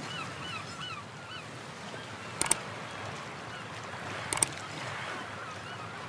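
Birds calling: a quick run of short calls, each falling in pitch, then fainter ones later, over a steady hiss, with two sharp clicks about two seconds apart in the middle.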